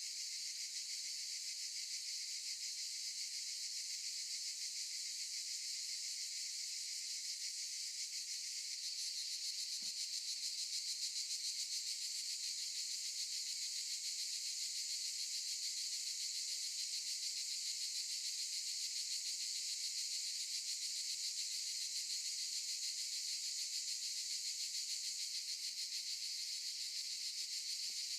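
Cicadas buzzing in a continuous high, hissing chorus that swells slightly about nine seconds in.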